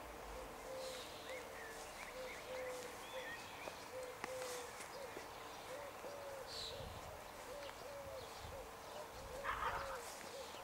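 Birds calling outdoors: a run of short, low, pitched notes repeating two to three times a second, with higher chirps from other birds above. A faint steady hum lies underneath, and there is a short louder burst about nine and a half seconds in.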